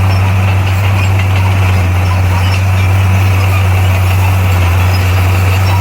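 Bulldozer's diesel engine running steadily with a deep, constant drone, its revs unchanged.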